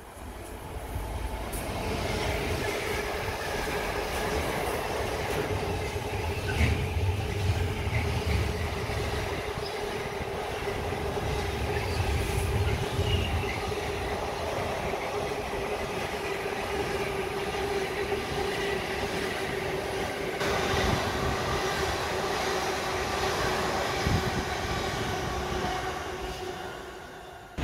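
Diesel-hauled container freight train passing close by: the locomotive's engine rumbles past, then a long line of loaded container wagons rolls by, with the rolling wheels making a steady whine. It builds about a second in and fades away just before the end.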